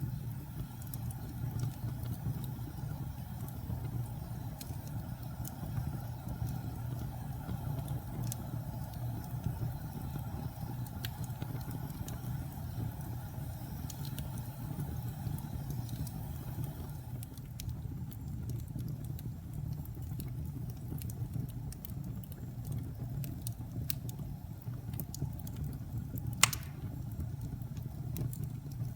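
Fireplace wood fire crackling: scattered sharp ticks and pops over a steady low rumble, with one louder pop near the end.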